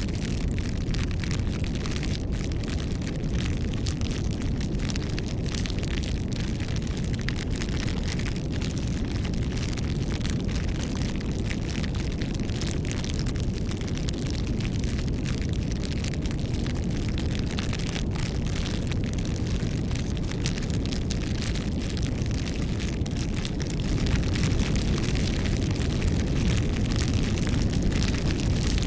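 Wood fire burning: a steady low rush of flames with frequent small crackles and pops of burning wood, a little louder from about 24 seconds in.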